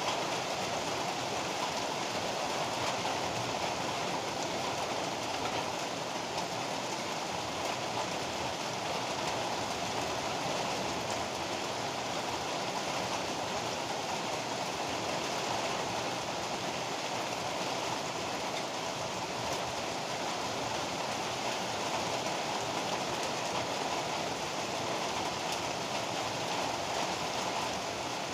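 Heavy rain pouring steadily, an even, unbroken hiss with no thunderclaps.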